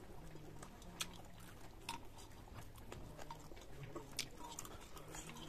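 Faint close-up eating sounds of a man eating rice by hand: chewing and mouth smacks, with scattered small clicks.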